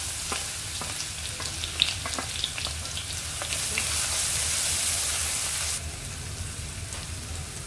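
Crushed ginger and garlic sizzling in hot oil in a kadai, with light clicks of stirring. The sizzle grows louder about halfway through, then drops suddenly near the end.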